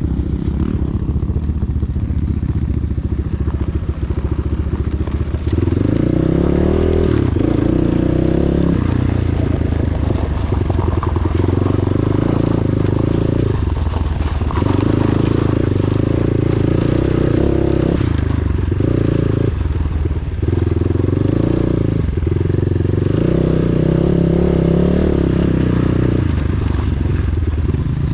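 Enduro motorcycle engine running under changing throttle while riding. From about five seconds in, its pitch steps up and drops back in repeated spells, a few seconds each, as the rider accelerates and shifts.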